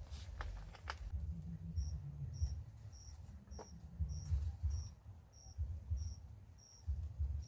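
Cricket chirping: a short, high chirp repeated evenly about twice a second, starting a couple of seconds in, over a low rumble.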